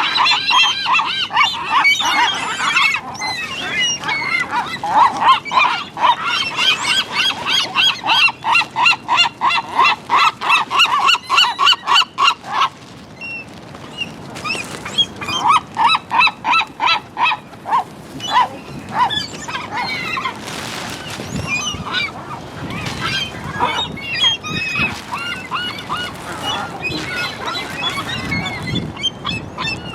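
Gulls calling loudly, several overlapping: rapid runs of repeated calls, about three or four a second, one run breaking off about halfway through and another a few seconds later, with scattered single calls in between.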